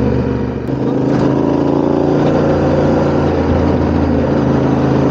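Yamaha Ténéré 700's parallel-twin engine running steadily while riding, with a short dip in level about half a second in.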